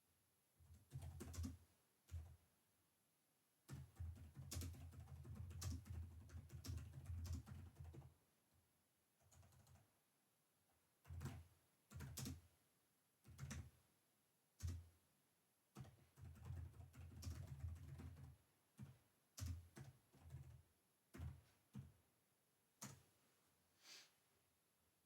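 Quiet typing on a computer keyboard, heard close. Longer runs of rapid keystrokes alternate with pauses and single, separate key taps.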